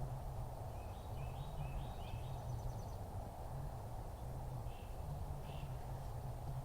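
A small bird calling: a quick run of short chirps about a second in, then two single calls near the end, over a steady low rumble of background noise.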